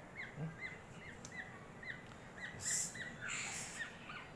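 Oriole chicks giving a run of short, high begging chirps, about three to four a second, while being hand-fed fruit.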